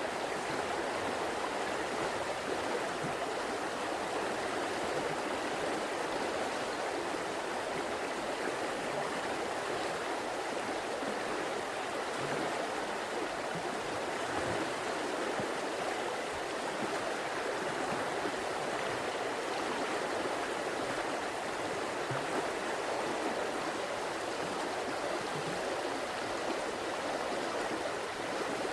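River water flowing over rocks: a steady, even rushing and burbling.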